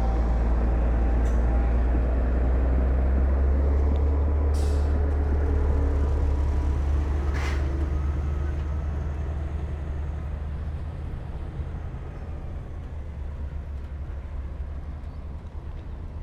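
Heavy diesel earthmoving machinery running with a deep, steady rumble that fades over the second half. Two short bursts of hissing air, like air-brake releases, come about four and seven seconds in.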